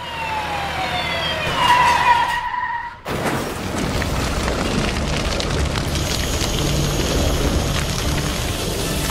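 Dubbed siren sound effect sweeping down in pitch and settling on a steady wail, cut off about three seconds in. It is followed by a steady rushing hiss over a low rumble.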